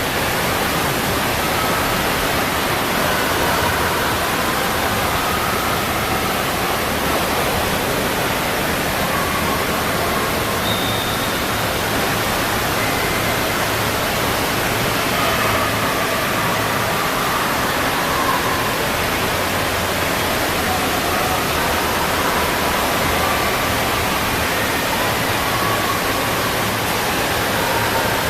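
Steady, even rush of running or falling water with faint distant voices mixed in.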